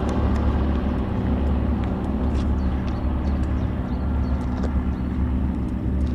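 Airbus Helicopters H125 single-turbine helicopter running steadily: a constant low hum made of several steady tones, holding level throughout.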